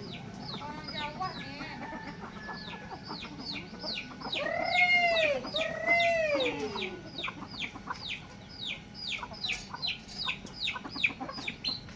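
Free-range village chickens: chicks peeping rapidly and continuously in short falling high notes, with an adult chicken giving two loud, drawn-out calls midway.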